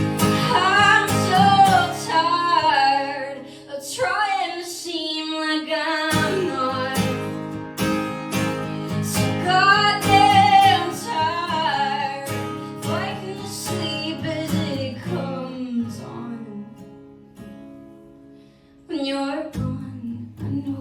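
A woman singing over a strummed acoustic guitar in a live acoustic performance. The guitar drops out briefly about four seconds in, the music thins and fades after about sixteen seconds, then comes back in fully near the end.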